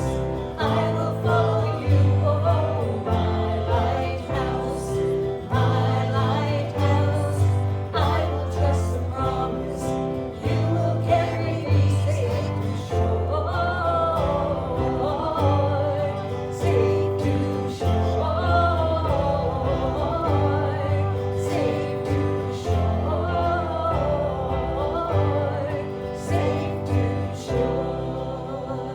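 Voices singing a hymn with instrumental accompaniment: sustained chords under a bass line that moves about once a second.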